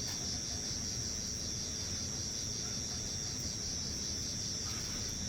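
Chorus of night insects, crickets or similar, making a steady high-pitched trill that pulses about six times a second.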